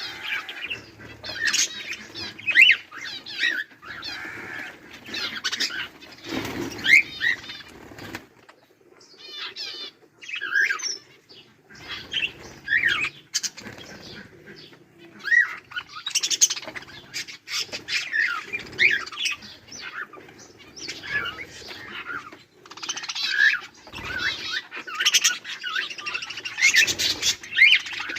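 A group of budgerigars chirping and chattering, many short rising and falling calls overlapping, with a brief lull about eight seconds in.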